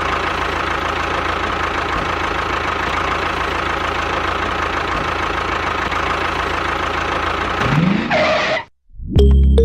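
A machine running steadily with a constant whine, rising in pitch near the end and then cutting off suddenly, followed by music starting.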